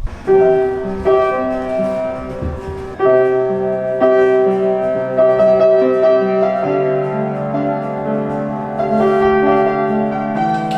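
Background piano music: slow, sustained chords that change about once a second.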